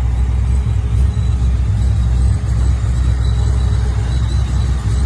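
ProCharger-supercharged Chevrolet small-block V8, a 350 stroked to 396, idling with a steady low rumble and no revving.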